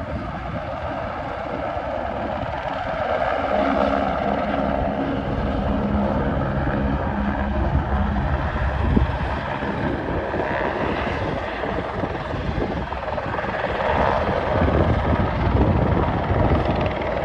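Helicopter running steadily, its rotor beating rapidly.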